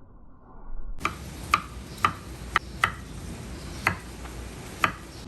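A series of seven sharp taps, about two a second, beginning a second in, with a longer gap in the middle.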